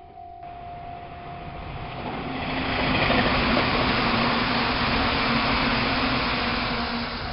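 Meitetsu Panorama Super limited express train running past. The rail noise builds over about two seconds, stays loud with a steady low hum underneath, then eases slightly near the end.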